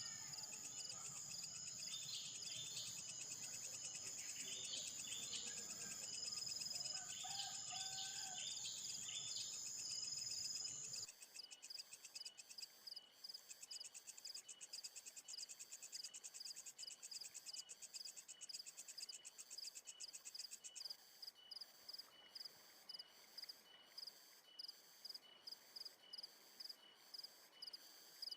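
Insects buzzing in a steady high drone, with short bird chirps over it; about a third of the way in the background changes suddenly and the insect sound becomes a fast, even pulsing.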